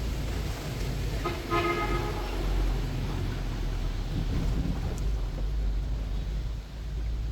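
Street traffic with a steady low engine rumble. A vehicle horn honks briefly about one and a half seconds in.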